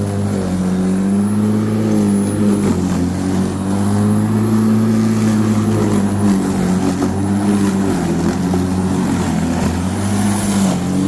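Black & Decker 1800 W electric rotary lawnmower running steadily while cutting, a motor hum with a high whine above it. Its pitch sags briefly several times as the blade loads up in very wet grass, then recovers.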